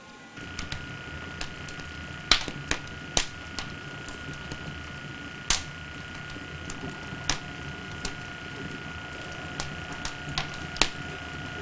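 Wood fire crackling: irregular sharp snaps and pops, the loudest a little after two, three and five seconds in, over a steady low background.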